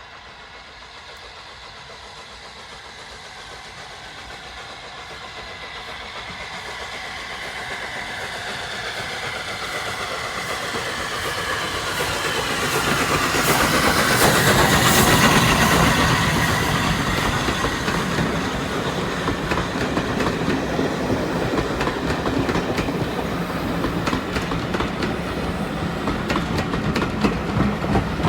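A train, the Flying Scotsman and its carriages, approaching and passing: it grows steadily louder to a peak about halfway through, then the carriages clatter over the rail joints as they roll by.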